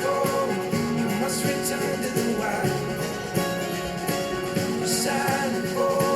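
A song playing back through desktop studio monitor speakers, recorded from the room by microphones. Sustained melodic lines run over a dense, steady mix.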